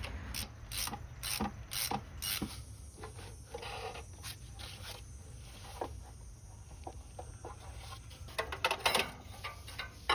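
Hand ratchet clicking in short runs, with scattered single clicks and a quick cluster of clicks near the end, as work goes on in the engine bay.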